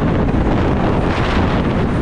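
Strong wind buffeting the microphone, a steady loud rush, as heard while riding a motorcycle.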